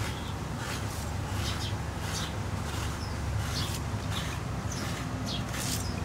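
Small birds chirping in short, high, falling calls, repeated several times, over a steady low rumble.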